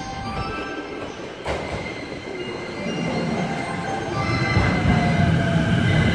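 JR E233-series electric commuter train pulling into the platform, its wheels and running gear rumbling louder as the cars draw alongside from about halfway in, over steady high-pitched tones.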